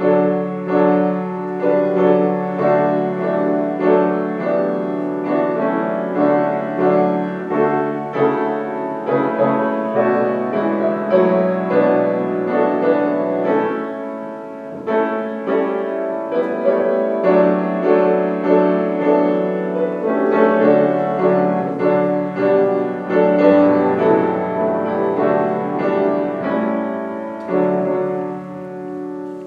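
Solo piano playing slow music in sustained chords over held bass notes, each chord struck and dying away, fading out near the end.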